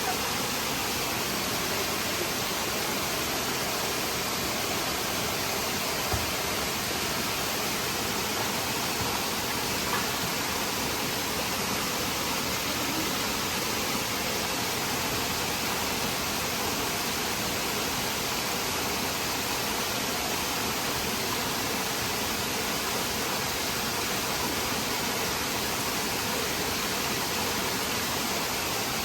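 Waterfall and rocky mountain stream rushing: a steady, even roar of falling and running water that does not change.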